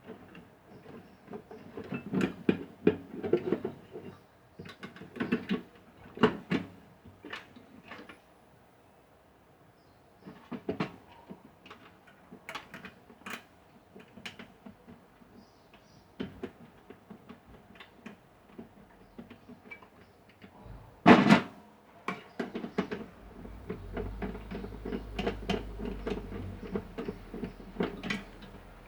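Irregular clicks, knocks and light rattles of small parts and tools being handled, with one louder knock about 21 seconds in. A low steady hum starts shortly after it and runs under the handling.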